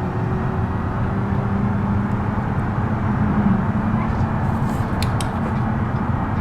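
Minivan engine running steadily after being coaxed into starting, its pitch rising a little a few seconds in.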